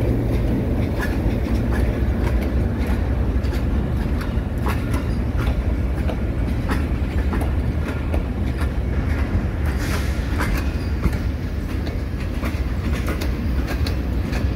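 Pakistan Railways passenger coaches of a passing train rolling by at low speed: a steady low rumble with wheels clicking over rail joints again and again.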